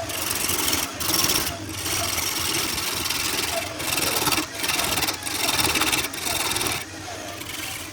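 A tool scraping hard across wood in repeated strokes, with short breaks between them.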